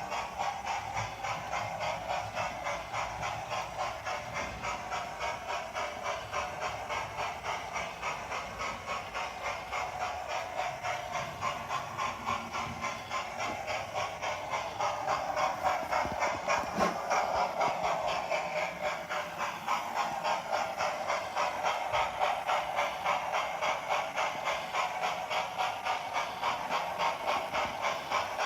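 Hornby TTS sound decoder in an OO gauge Duke of Gloucester model locomotive playing a steam engine's rapid, regular exhaust chuffs with hiss through the model's small speaker, growing a little louder about halfway through.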